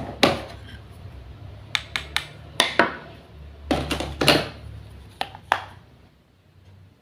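Small kitchenware or utensils knocking and clattering together: a series of light, irregular taps and clicks, fading out near the end.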